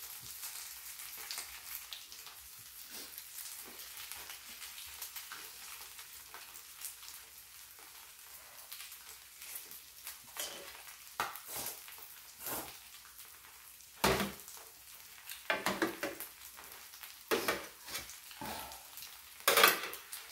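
Squid-and-scallion pajeon frying on an electric griddle with a steady high sizzle. Occasional sharp clicks and knocks of chopsticks and dishes come in the second half, the loudest about two-thirds of the way through and near the end.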